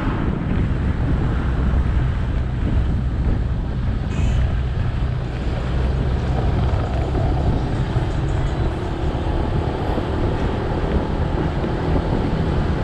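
Motorcycle engine running steadily while riding, with wind buffeting the microphone and road noise.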